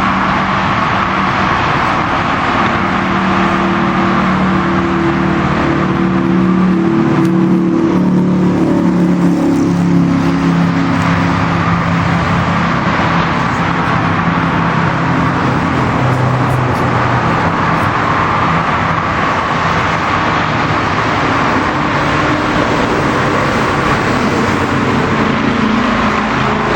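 Kawasaki ZX-14's inline-four engine running continuously, its pitch drifting up and down a little.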